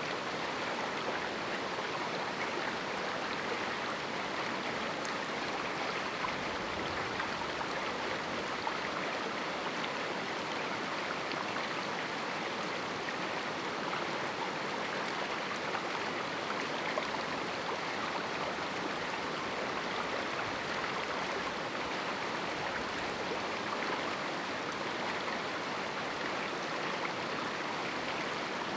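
A small river flowing steadily over rocks in a canyon: an even rushing and splashing of water.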